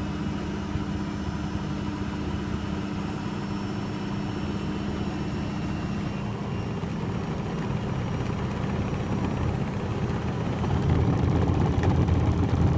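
Beko washing machine running a cottons 60 °C programme, its drum spinning with a steady motor whirr and hum. It grows louder and fuller about ten to eleven seconds in.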